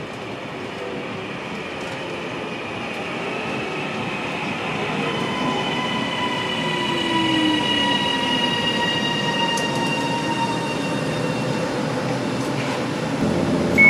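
Northern Class 331 electric multiple unit pulling into the platform and slowing, its sound growing louder as it draws alongside. Steady high tones run over the running noise, and a whine falls in pitch about halfway through as the train brakes.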